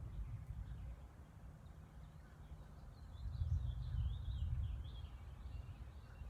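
Birds calling with a run of short high chirps, thickest around the middle, over a low, fluctuating rumble.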